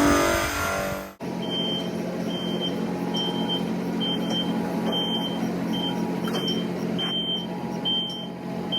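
A vehicle's backup alarm beeps about once every three quarters of a second over a steady running engine. Before that, a brief stretch of music cuts off abruptly about a second in.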